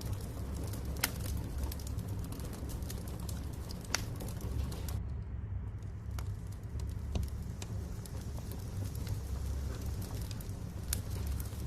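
Wood fire burning in a fireplace: a steady low rumble of the flames with sharp crackles and pops from the logs every few seconds.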